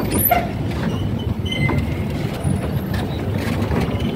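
Heritage railway passenger carriages rolling slowly past on the track with a steady low rumble of wheels on rails. A brief high squeak and clank come about a quarter of a second in.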